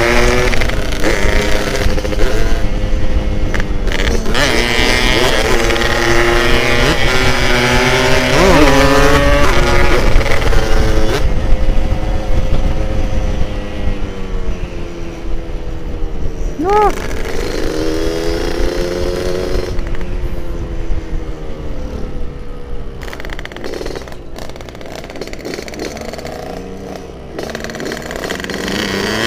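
Yamaha RX King two-stroke single-cylinder motorcycle engine running on the road, its pitch rising and falling as the throttle opens and closes, with a rumble of wind on the microphone. It runs louder in the first half and quieter after about halfway.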